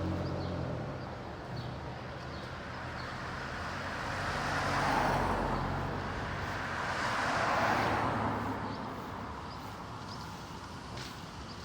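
Road traffic: a heavy vehicle's engine fading away at the start, then two vehicles passing with tyre noise, about 5 and 7.5 seconds in. No siren sounds.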